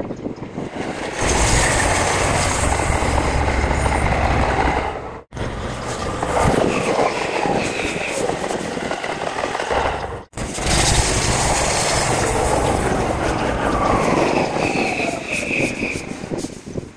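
Electric trains running through Tokyo Station: a dense rumble of rail noise with several falling whines. The sound cuts off abruptly twice and resumes, as if spliced in pieces.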